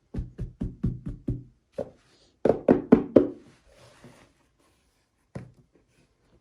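A run of quick, hollow, resonant knocks in uneven groups: six fast ones, a single one, then four louder ones close together, and one more near the end.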